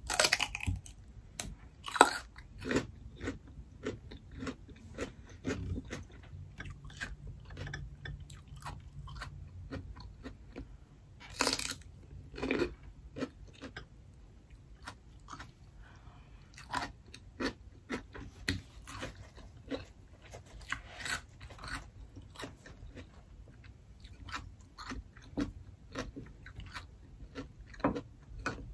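Crunching and chewing of a raw red radish: a loud bite at the start, then a long run of crisp crunches and chewing.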